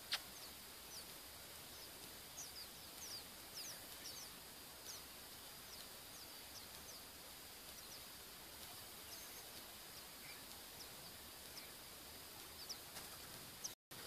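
Faint, high, short chirps of small birds, many in quick succession in the first few seconds and fewer later, over a steady background hiss. A single sharp click comes just after the start.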